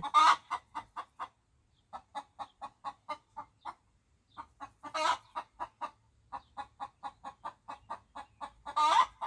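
Domestic hen clucking: a run of short clucks, about four a second, broken by brief pauses, with a louder, drawn-out cluck about five seconds in and again near the end.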